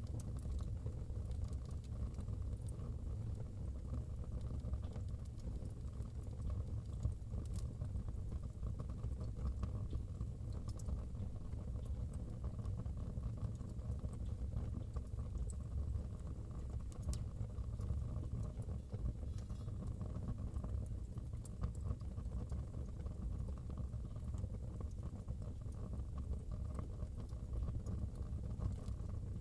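Wood fire burning in a fireplace: a steady low rumble with scattered crackles and pops throughout.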